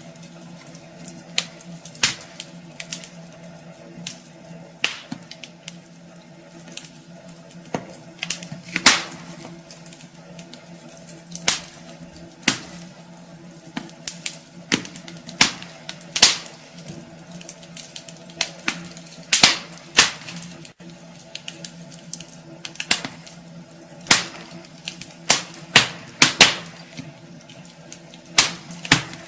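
Wood fire burning in a fireplace, crackling with irregular sharp pops of varying loudness, over a steady low hum.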